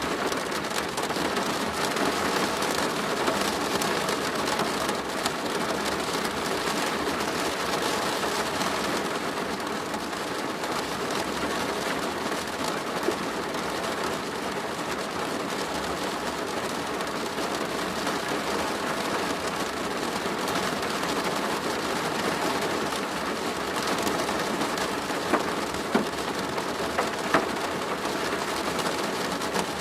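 Steady rain falling on a plastic roof, a dense even patter. A few sharper single drop hits stand out, a couple of them near the end.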